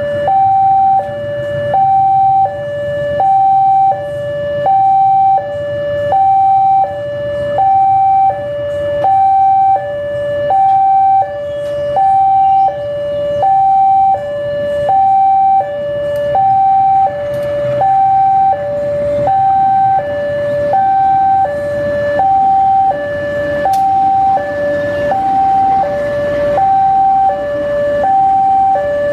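Two-tone hi-lo siren alternating steadily between a higher and a lower note, each held for about three-quarters of a second, repeating without a break.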